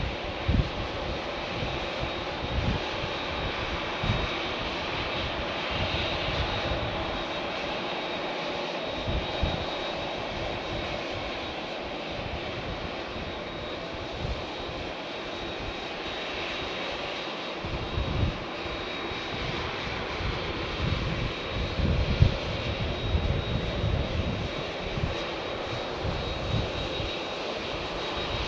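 Jet airliner engines running at high power as the plane takes off: a steady rushing roar with a thin high whine, and irregular low rumbling underneath.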